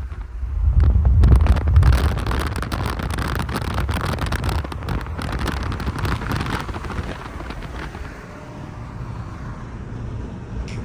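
A car engine running, loudest in the first couple of seconds and then steadier, with wind buffeting and crackling on the microphone.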